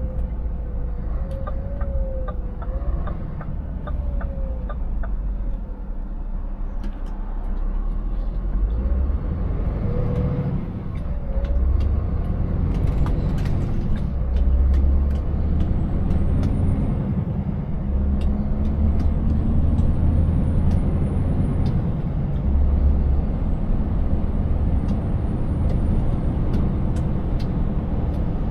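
Scania 590S truck's 16-litre V8 engine running steadily under way, with scattered short clicks and rattles over a rough road surface.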